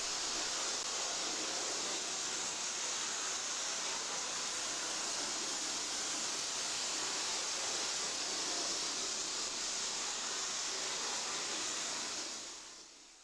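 00 gauge model train running at full speed around the layout, a steady hissing whir of motor and wheels on track that fades out near the end.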